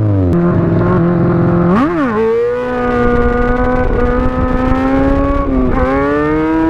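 Sportbike engine revved hard under load. It blips up and down quickly about two seconds in, then holds a high, slowly climbing pitch for a few seconds, typical of a wheelie held on the throttle. Near the end it drops briefly and climbs again.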